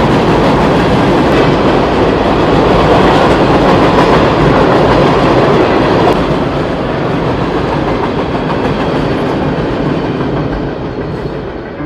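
A train passing on nearby tracks, a loud steady rumble and rattle of wheels and cars that eases about halfway through and fades near the end.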